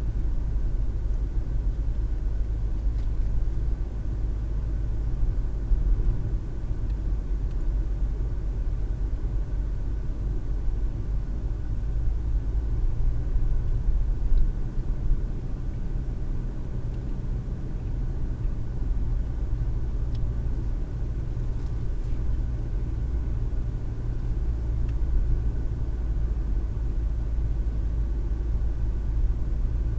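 Steady low road and engine rumble of a moving car, heard from inside the cabin through a dash cam's microphone.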